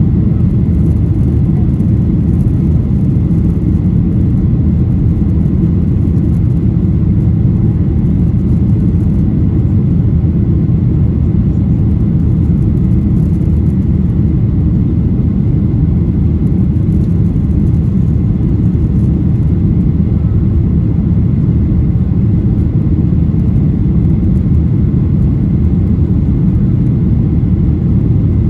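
Boeing 737-800's CFM56 jet engines and airflow heard inside the cabin as a loud, steady low rumble with a faint high whine, unchanging throughout.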